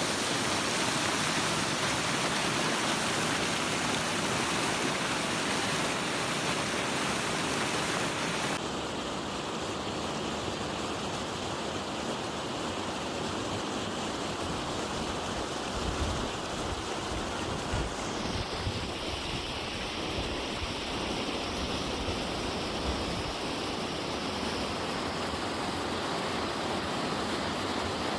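Running water, a steady rushing like a stream or small waterfall.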